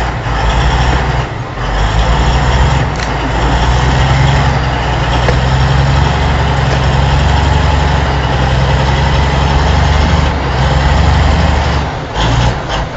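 Heavy truck engine running loud and steady with a deep low drone, with brief dips about a second and a half in and again near the end.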